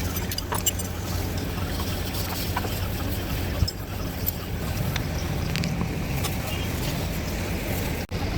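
Royal Enfield Bullet's single-cylinder engine running steadily, a low even thrum with a few light clicks over it.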